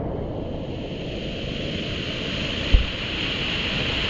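Steady rush of river and waterfall water, with one brief low thump about two-thirds of the way through.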